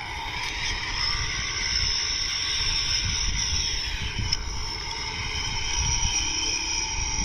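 A steady high buzzing drone over a low rumble that rises and falls, with no clear start or stop.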